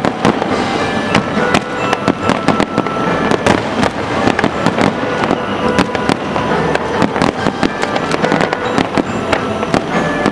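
Aerial fireworks bursting in a dense, continuous barrage of bangs and crackles, with music playing underneath.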